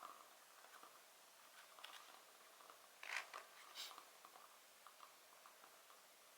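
Faint fireplace crackling: a steady scatter of small ticks, with two louder sharp pops a little past the three-second mark.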